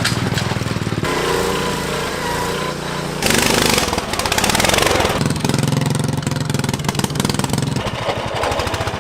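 Modified lawn tractor engines running hard, in several short stretches that change abruptly about a second, three seconds and five seconds in.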